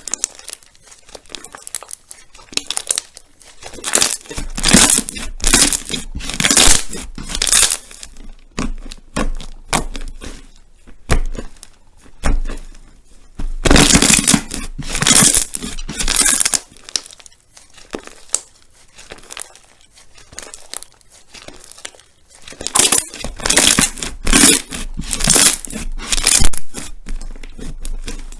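Crunchy slime being squeezed and pressed by hand, crackling and popping in three long runs of sharp clicks with quieter stretches between.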